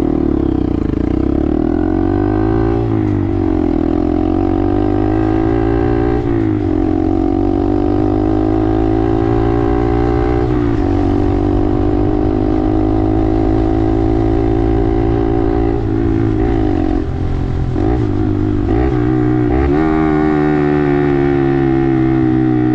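Honda Grom's small single-cylinder engine under way. It climbs in pitch and drops sharply twice in the first seconds as it shifts up, then cruises at a steady pitch. Around three-quarters through, the pitch dips and recovers several times in quick succession.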